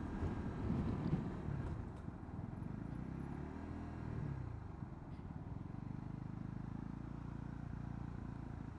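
Honda CB125R's single-cylinder engine running on the move, with road and wind noise; the engine pitch rises and falls about three to four seconds in.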